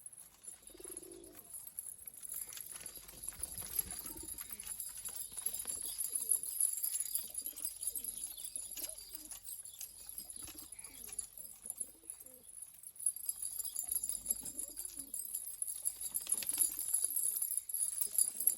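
Domestic pigeons cooing in low, repeated calls, with scattered light clicks among them.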